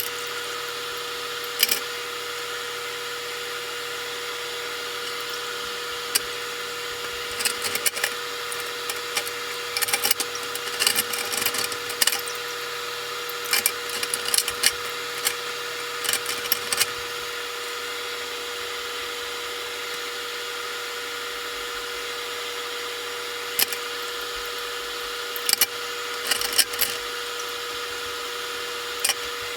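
A small shop machine or power tool runs steadily with an even hum, and clusters of short sharp clicks and knocks come over it twice, in the first half and again near the end.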